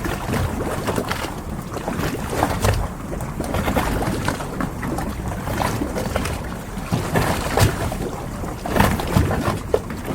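Harbor ambience: water lapping and sloshing against boats, with many small irregular knocks and clicks over a steady low rumble of wind.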